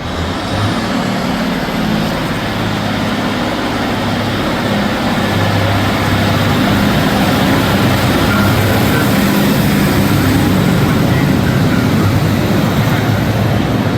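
Train running on the line: a steady drone of motor and wheels on rail, growing gradually louder over the first several seconds and then holding.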